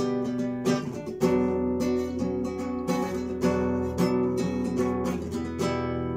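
Acoustic guitar strummed in a steady rhythm, playing chords in an instrumental break with no singing.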